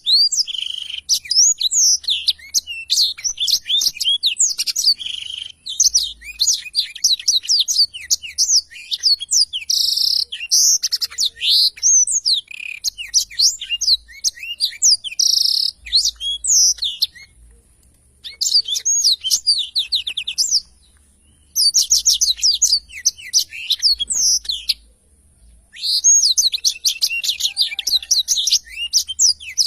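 Blackthroat (black-throated canary) singing a long, fast song of rapid high trills and chirps, broken by a few short pauses.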